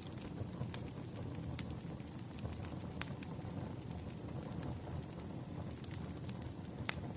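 Firewood burning: a steady low rumble of flames with scattered sharp crackles and pops, the strongest about three seconds in and near the end.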